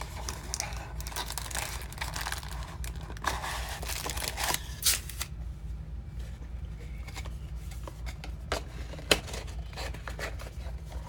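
Trading-card packaging being torn open and crinkled by hand for about five seconds, then a few light clicks and taps as the cards are handled.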